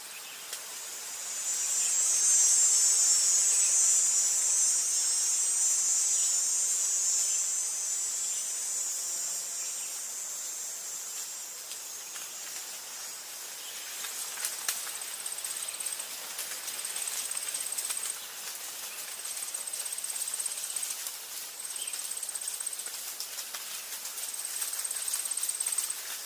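Forest insects: a loud, dense, high-pitched insect buzz comes in about two seconds in and fades out after about ten seconds. It is followed by a thinner high trill that repeats in bursts of a second or two, with scattered light ticks.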